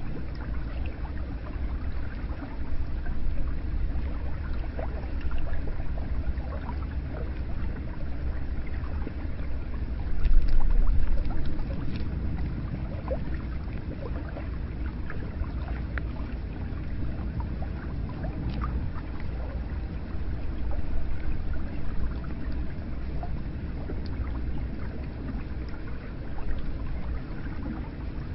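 Hot spring water pouring steadily into a bath, a continuous low splashing rush with many small drips and plinks scattered through it, swelling louder briefly about ten seconds in.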